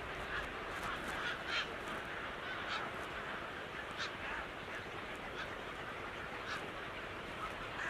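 Birds calling: a run of many short, scattered calls over a steady hiss.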